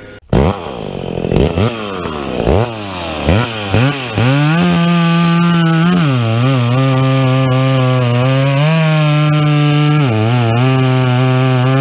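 Two-stroke chainsaw blipped through several short revs, then held at full throttle from about four seconds in, cutting the back cut into a tree to be felled, with the revs dipping briefly twice under the load.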